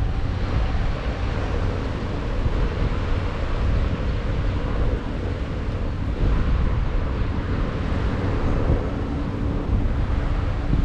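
Wind buffeting the microphone over a steady low drone from a passing ship's engine, with waves in the background.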